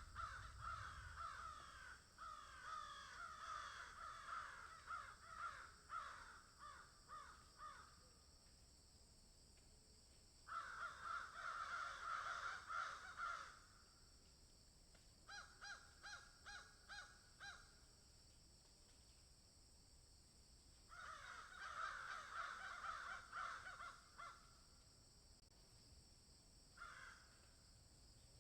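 Crows cawing in about five bouts of quick, repeated caws separated by short pauses, faint, over a steady high hiss.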